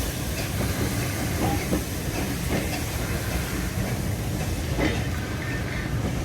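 Steam-hauled train departing: a steady rumble with a hiss of steam and scattered wheel clicks over the rail joints as it rolls past.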